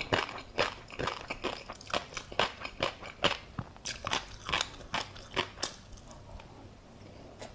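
Close-miked chewing of a mouthful of tobiko, many small crisp pops and clicks in quick succession that thin out and stop about six seconds in.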